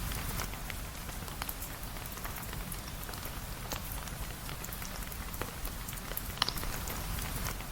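Steady rain, with a low rumble underneath and scattered sharp crackles and pops from a wood fire, one of them louder about six and a half seconds in.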